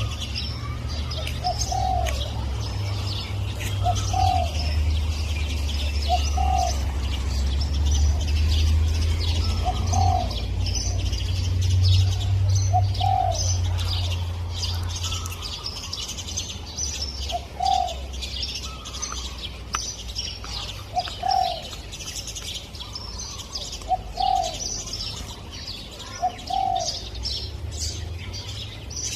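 Spotted dove cooing: short coos repeated every two to four seconds, over a steady chatter of small birds chirping high and a low rumble that fades about halfway through.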